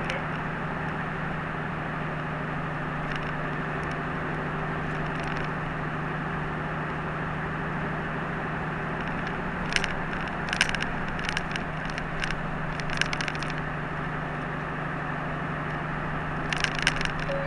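Steady engine hum and road noise heard from inside a moving route bus, with short bursts of sharp clicks and rattles about ten seconds in and again near the end.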